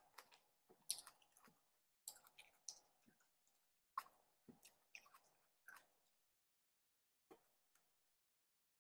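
Close-miked chewing of a cherry tomato: a quick run of wet, juicy clicks and squelches for about six seconds, then a pause and a couple of faint clicks near the end.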